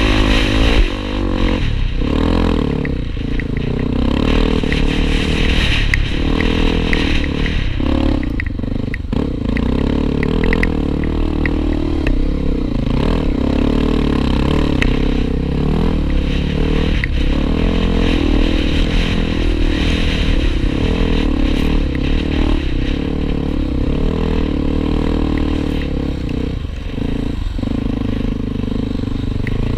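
Honda XR250 Tornado single-cylinder trail-bike engine running steadily under way, its pitch wavering slightly with the throttle, with frequent clatter and knocks from the bike over rough ground.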